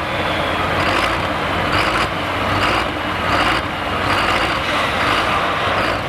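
Hot farm pulling tractor's diesel engine running loud, with a broad noisy roar that swells and eases about once a second over a steady low hum.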